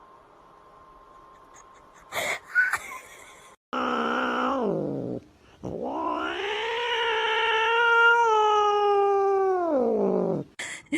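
A cat yowling: a short yowl that falls in pitch, then one long drawn-out yowl of about five seconds that rises, holds and sinks away.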